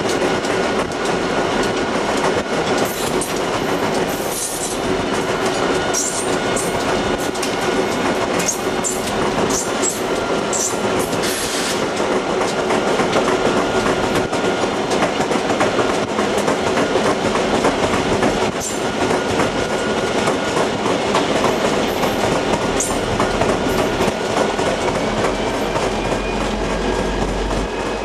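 Railroad cars rolling past on steel rails in a steady clickety-clack. Short high-pitched wheel squeals come several times in the first half.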